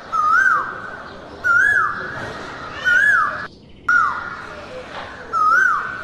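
A bird repeating the same whistled call five times, about every second and a half: each note rises, holds briefly, then slides down, over a steady background hiss. The sound cuts out for a moment a little after halfway.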